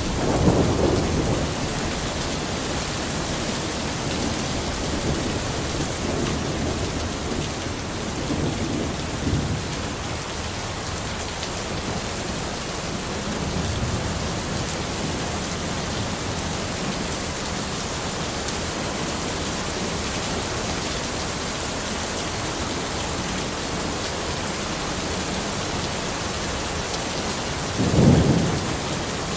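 Steady rain in a forest, with rolls of thunder: one about a second in, fainter ones around nine and fourteen seconds, and a louder one near the end.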